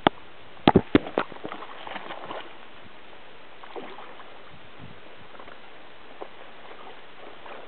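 Light splashing and lapping of lake water as a hooked trout is reeled in near the surface, with a few sharp knocks in the first second and a half, then a faint, steady hiss.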